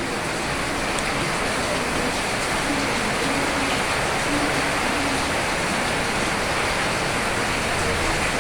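Steady rain, a dense even hiss at constant loudness.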